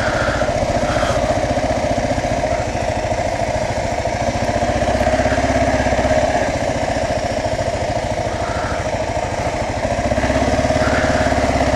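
Kawasaki KLR 650's single-cylinder four-stroke engine running steadily, getting a little louder around the middle and again near the end.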